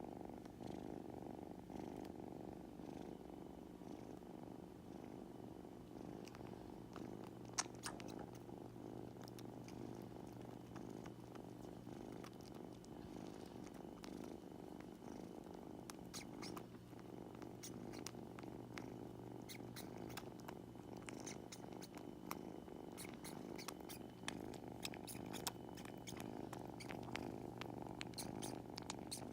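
A kitten purring steadily, with small scattered clicks over the purr.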